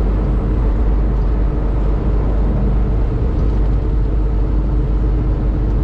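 Semi truck driving on the highway: steady engine and road noise with no change in pace.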